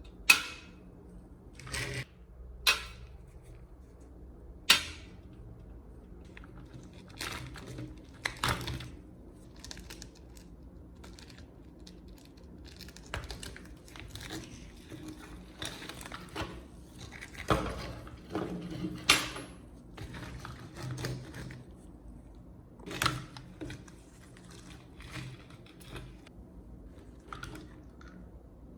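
Hard objects being handled during work: irregular sharp knocks and clinks, several seconds apart, with quieter rubbing and scraping between them.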